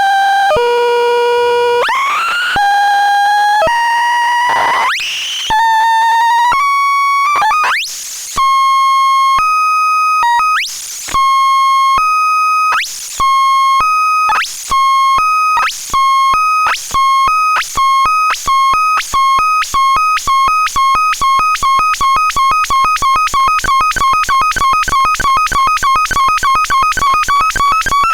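Synthesized electronic tones: for the first few seconds, buzzy notes that glide and step upward in pitch, then short two-note beeps that repeat faster and faster until they come about four times a second.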